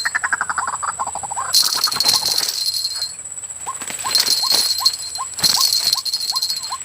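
White-breasted waterhen calls: short rising notes repeated about twice a second, with a quick falling run of notes at the start. Over them sounds a steady high whine and, several times, bursts of hissing buzz that stop suddenly.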